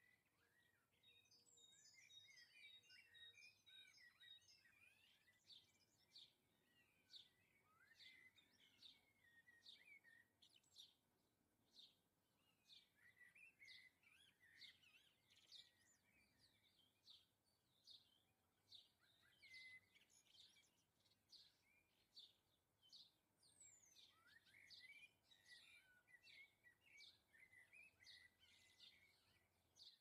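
Faint chirps and calls of several small garden birds: quick, sharp chirps every second or so, with busier stretches of overlapping twittering.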